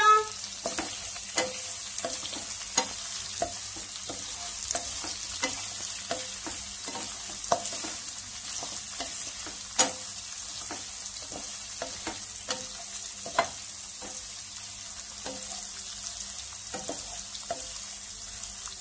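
Sliced onions, green chillies and curry leaves sizzling in oil in a nonstick pan, stirred with a wooden spatula that scrapes and taps against the pan about once a second, with a few louder knocks.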